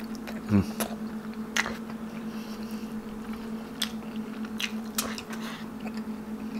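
Close-miked eating: a man chewing soft stewed meat and rice with his mouth closed, with scattered wet smacks and clicks of lips and fingers. There is a short falling hum from him about half a second in, and a steady electrical hum underneath.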